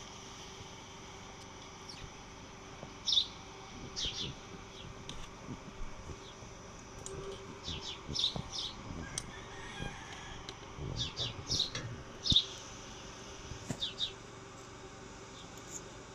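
Small birds chirping in short, high, quick notes that come in scattered clusters. Under them runs a steady low hum, and there are a few dull knocks about two thirds of the way through.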